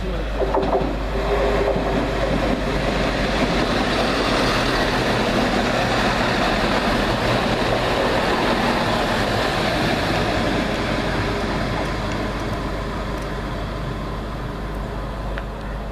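Class 170 Turbostar diesel multiple unit running into the platform, its diesel engines and wheels on the rails loudest as the coaches pass close by in the first couple of seconds, then slowly fading as it slows and draws away toward the far end of the platform.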